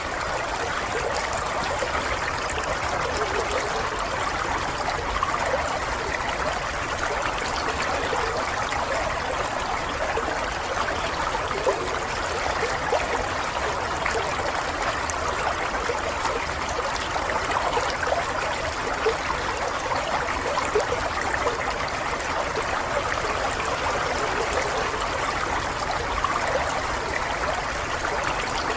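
A stream of water running and trickling, a steady babbling rush with no let-up.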